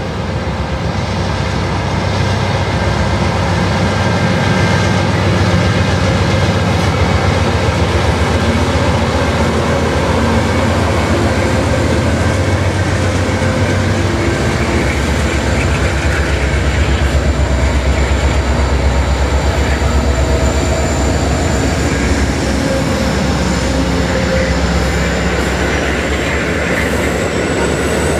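Diesel freight train passing close by: CN freight locomotives led by a former Santa Fe GE Dash 8 run past with a steady loud engine and wheel rumble, then an Amtrak passenger train passes on the near track as the two meet. A thin high whine rises near the end.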